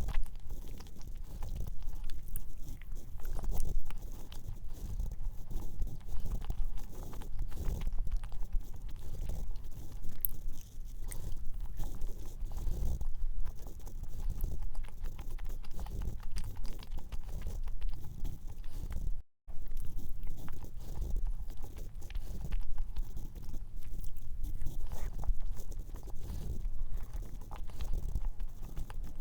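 Close-miked chewing of a soft, dense cream-cheese cup cookie, with wet mouth sounds and small clicks, broken by a brief cut about two-thirds of the way through.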